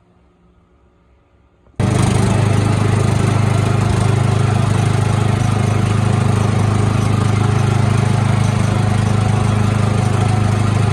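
Small engine running steadily at a constant speed close to the microphone, cutting in abruptly about two seconds in.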